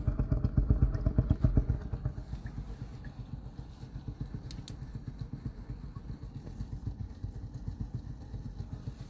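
Water gurgling inside an uninsulated shower exhaust fan duct as the fan pushes air through it: a rapid, low bubbling, louder for the first two seconds or so, then fainter. The water is shower steam that has condensed in the cold duct and pooled at a low spot, filling it.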